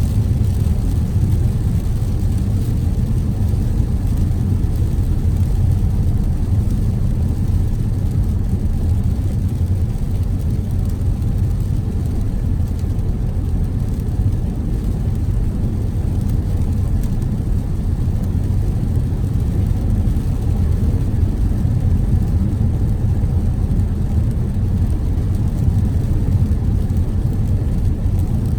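Car driving steadily: an unchanging low rumble of road and engine noise.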